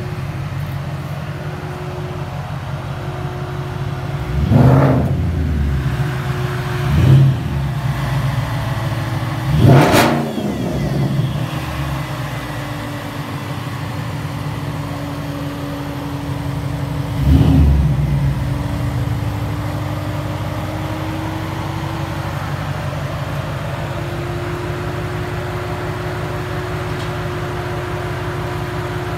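Porsche Panamera engine idling steadily and blipped four times: quick revs about four, seven and ten seconds in, the third the sharpest, and a last one near eighteen seconds, each rising and falling back to idle.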